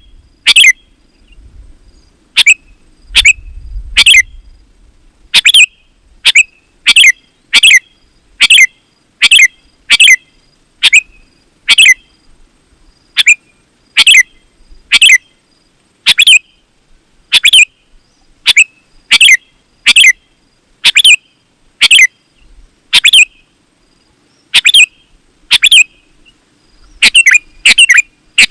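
Sooty-headed bulbul (kutilang) calling: short, sharp notes repeated about once or twice a second, in runs broken by brief pauses.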